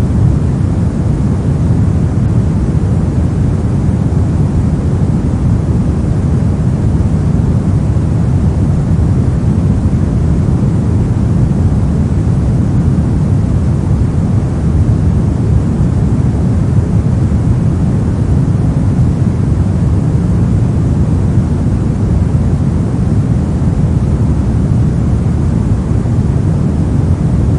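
Steady synthetic pink noise: a constant, even rush weighted toward the low end, with no changes or events.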